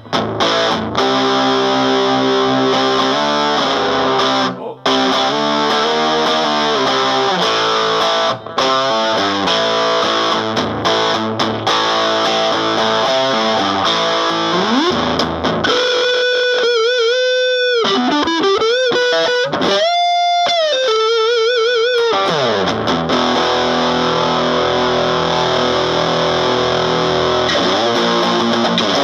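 Electric guitar played through a 25-watt Round Digital Sound GX-25 amplifier with a 10-inch speaker, on its distorted, high-gain setting: chord riffs, then a few long single lead notes with bends and wide vibrato about halfway through, then chords again.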